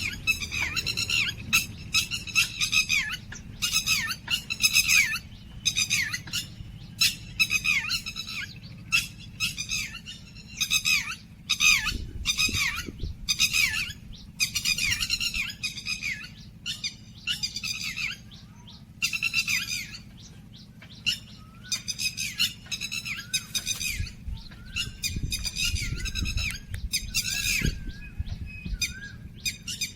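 Small songbirds chirping in quick, overlapping short calls, with a few brief gaps, and some low thumps about twelve seconds in and again near the end.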